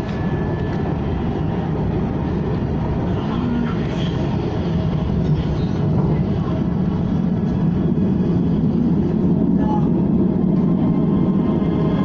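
Steady rumble of a KTM ETS electric train running, heard from inside the carriage, growing slightly louder about halfway through.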